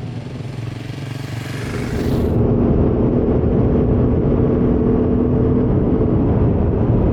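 Motorcycle engine running at a steady speed while riding, with wind and road noise. About two seconds in, the sound changes suddenly and gets louder, with a steady engine note.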